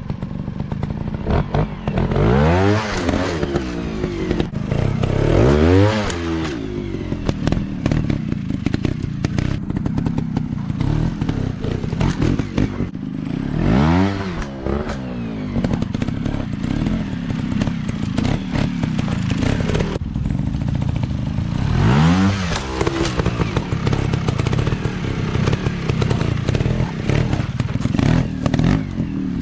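Dirt bike engines running, revving up and falling back several times as the bikes ride.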